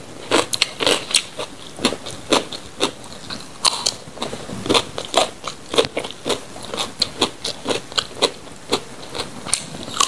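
Close-miked biting and crunching of raw lalapan vegetables, with sharp, irregular crunches a few times a second between softer chewing.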